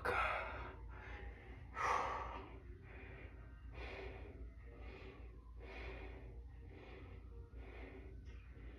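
A person breathing hard through the nose and mouth, a run of audible breaths about one every second or two, the first two the loudest.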